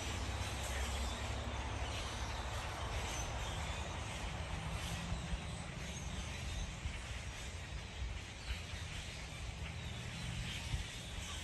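Outdoor ambience: a steady low rumble and hiss, with faint bird calls and a few soft, irregular taps.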